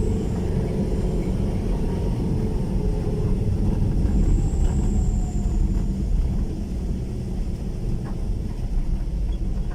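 Steady low rumble of vehicle engine and road noise on an uphill climb.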